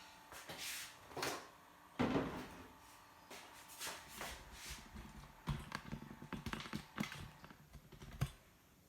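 Irregular handling noises close to the microphone: clicks, taps and knocks, with a louder knock about two seconds in and a quick run of clicks near the end.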